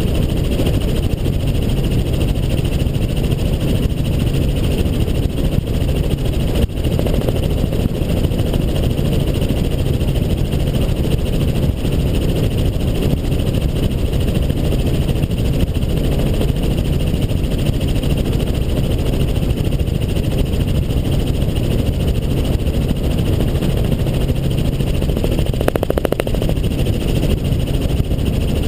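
Helicopter in flight, its engine and rotor giving a loud, steady drone, with a brief buzz near the end.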